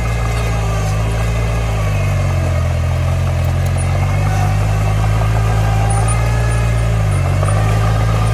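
Heavy-equipment diesel engine running steadily, its low note shifting about two seconds in and again near the end, as under changing load.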